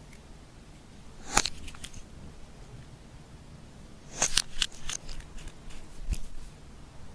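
Slime being worked by hand: sharp, crisp clicks and crackles, a short cluster about a second in, then a longer run of clicks from about four to six seconds in.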